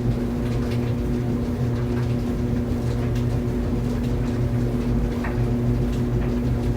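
Clothes dryer running: a steady motor hum with light, irregular clicks and taps over it.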